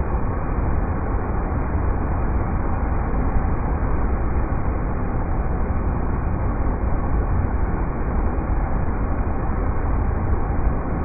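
River rapids: a steady, unbroken rush of water, heavy in the low rumble and dull, with no bright hiss.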